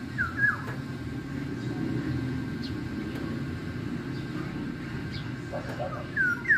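Maya bird chirping: a pair of short, downward-curving chirps just after the start and another pair near the end, with a few faint higher chirps between, over a steady low rumble.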